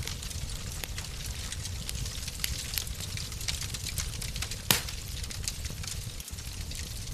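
Wood fire in a fireplace crackling: a steady low rumble of flames with a scatter of sharp crackles and one louder pop about two-thirds of the way in.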